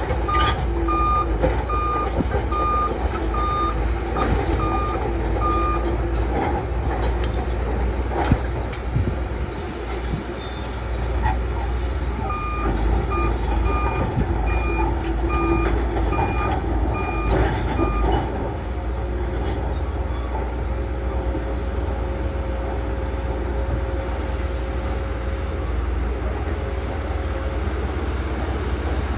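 Heavy earthmoving machine's diesel engine running under steady load, with its backup alarm beeping about one and a half times a second in two spells of about six seconds each, the second starting about twelve seconds in. A few knocks stand out.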